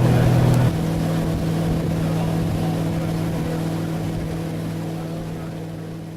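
Engine running steadily; its note drops a step about a second in, then it slowly fades away.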